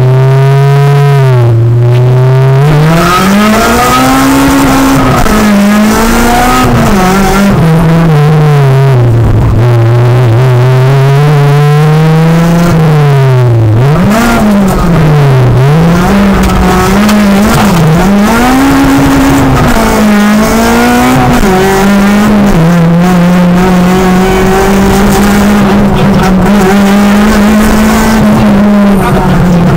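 Honda Civic Type R rally car's four-cylinder engine heard from inside the cabin, driven hard on a stage. The revs climb and drop again and again with gear changes and lifts, then hold steadier near the end.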